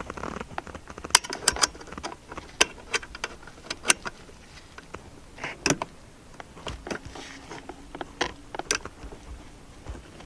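Irregular sharp metallic clicks, taps and light rattles of a handbrake cable end and tools being handled while the cable nipple is worked onto the handbrake lever.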